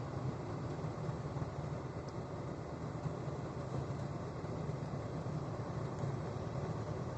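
Steady low drone of a semi truck's engine and road noise, heard from inside the cab while driving.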